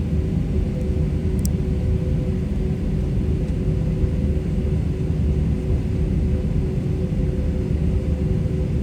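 Airbus A320-200 engines and cabin noise heard from a passenger seat: a steady low rumble with an even hum that does not change.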